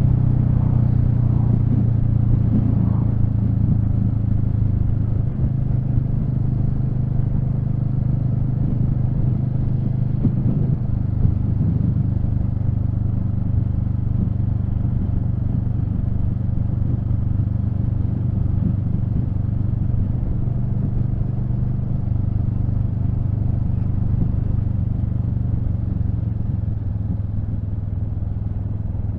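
Royal Enfield Meteor 350's single-cylinder engine running steadily at cruising speed, a low, even engine note with only small changes in pitch.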